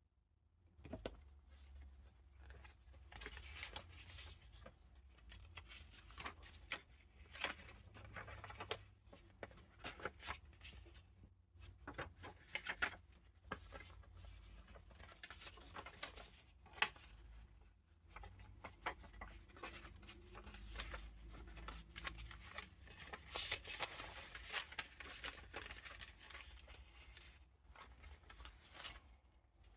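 Pages and paper ephemera of a handmade junk journal being turned and handled: dry paper rustling and crinkling in irregular strokes, with soft taps.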